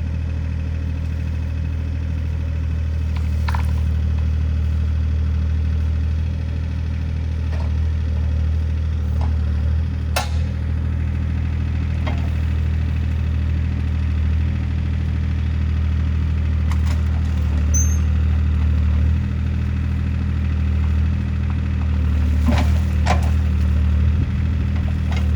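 CAT 303C CR mini excavator's diesel engine running steadily at work, with a few sharp knocks now and then.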